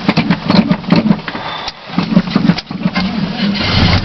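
Chevrolet 305 V8 in a 1977 Chevy C10 cranking on the starter in 8 °F cold without catching, in quick rhythmic turns with two short breaks.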